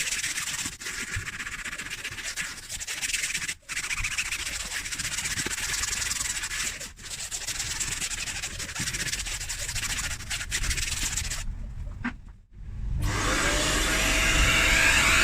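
A brush scrubbing the car seat upholstery in repeated strokes, with short pauses about 3.5 and 7 seconds in. Near the end it stops, and the Kärcher Puzzi 10/1 spray extractor's motor starts, its whine rising and settling into a steady tone.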